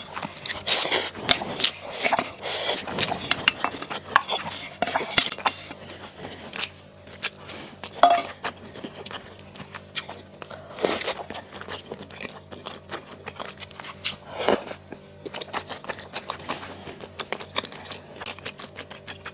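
Close-up eating sounds of mala xiang guo: steady chewing and crunching with small clicks, and several louder crunching bites scattered through.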